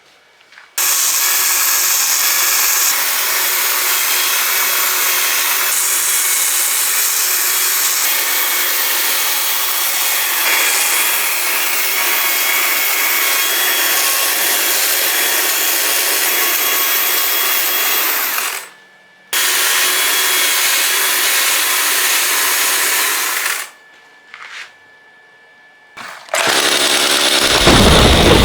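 Stihl MSA 140 battery chainsaw cutting wood in two long runs, stopping briefly between them. Then a few short blips of the motor, and near the end a louder, deeper sound starts.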